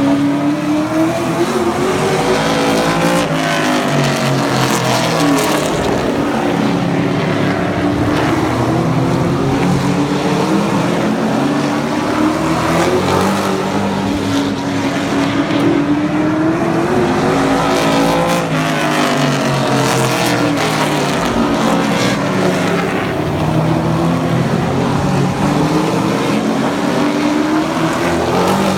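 Several super truck race cars' engines racing around an oval track. The pitch rises and falls in long sweeps every few seconds as they accelerate down the straights and back off into the turns.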